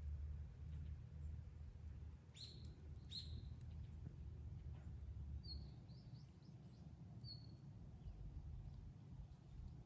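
Faint bird chirps: two sharp downward calls about two and three seconds in, then a few softer short chirps a little later, over a low steady rumble.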